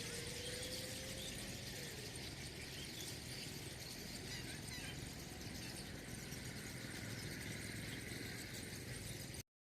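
Steady outdoor morning ambience with faint scattered high bird chirps. A faint rising whine runs through the first two seconds. The sound cuts off abruptly near the end.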